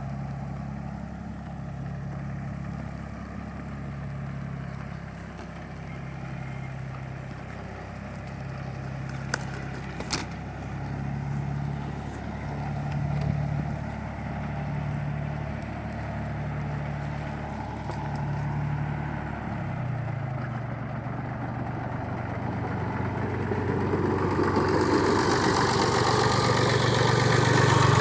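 A motor vehicle's engine idling with a slow, regular pulsing in its note, with two sharp clicks about nine and ten seconds in. About twenty seconds in the note changes, and a rushing noise builds steadily over it until the end.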